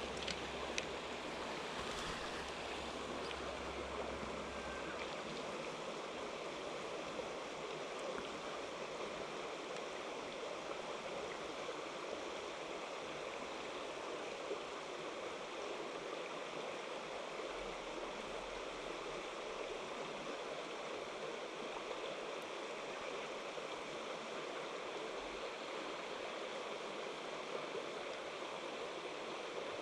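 Mountain stream water running over rocks, a steady even rush. A low rumble sits under it for the first few seconds and then fades out.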